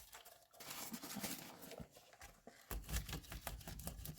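Hands working at a kitchen counter while dough is prepared: scattered clicks, taps and rustling, with a run of low bumps in the second half.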